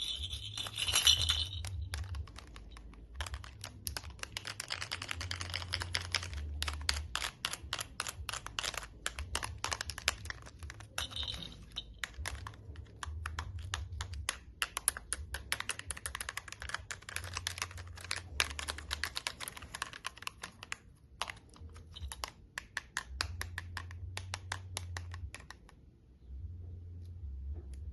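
Rapid, irregular clicking and tapping from a toy being handled, many clicks a second, thinning out near the end. A small bell jingles briefly at the very start.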